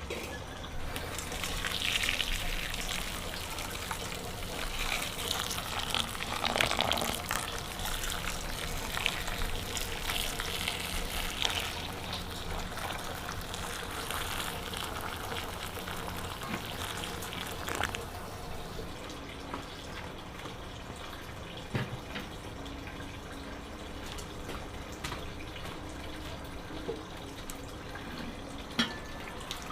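Water running and splashing, pouring heavily for the first half and then quieter and trickling, with a few light knocks near the end.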